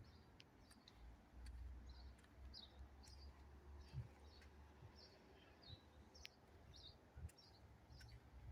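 Faint bird chirping: short high chirps repeated about twice a second, over a faint low rumble.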